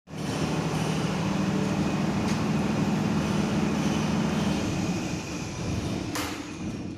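Machinery running steadily: a low hum under a broad hiss. The hum fades about five seconds in, and there is a sharp click shortly after.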